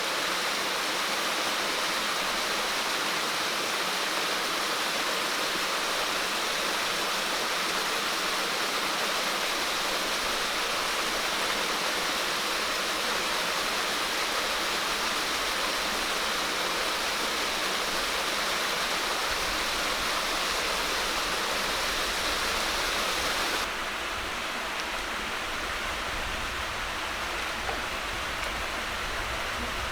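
Steady rushing sound of water. About three-quarters of the way through it changes abruptly to a duller sound with more low rumble.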